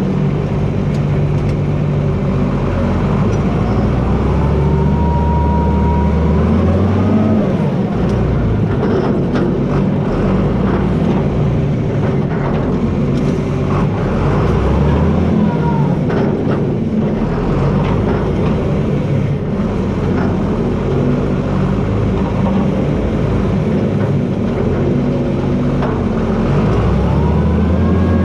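John Deere 4320 tractor's six-cylinder diesel engine running under varying load, its pitch shifting, with a higher whine that rises and falls a few times. Scattered short clicks and snaps come in the middle stretch.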